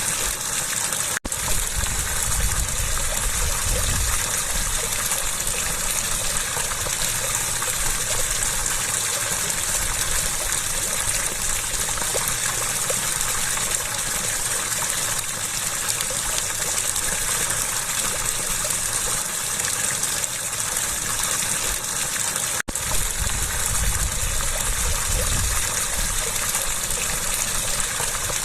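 Steady rushing, gushing water of a flowing stream or cascade. It cuts out for an instant twice, about a second in and near the end.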